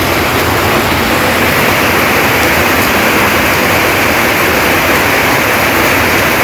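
Heavy rain falling steadily, a loud even downpour.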